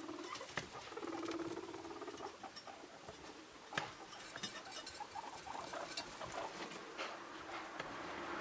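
Guinea pigs moving about with small pattering and clicking sounds. In the first two seconds there is a low, pulsed purring rumble, twice.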